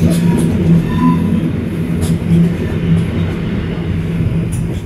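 Cabin running noise of a Stadler Flirt ER160 electric multiple unit under way: a steady low hum from the train, with a few light clicks.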